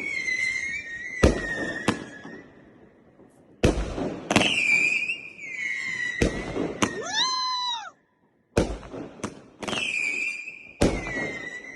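Firework batteries fused together on a pallet firing a rapid string of sharp bangs, about a dozen, most followed by a high whistling tone that slides down in pitch. About seven seconds in comes a whistle that rises and then falls, and just before eight seconds the sound briefly cuts out.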